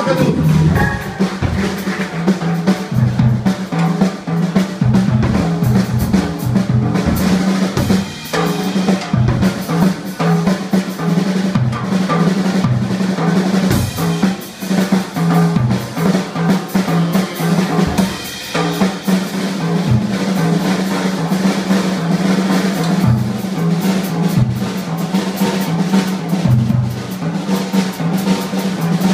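Drum kit solo in a funk jam: rapid snare rolls, rimshots and bass drum kicks, over a steady low bass vamp.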